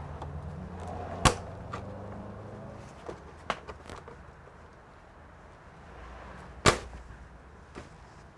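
Sharp clicks and snaps of hands and tools working on a computer's plastic and metal parts: two loud snaps, about a second in and near the end, with lighter clicks between. A low hum fades out in the first few seconds.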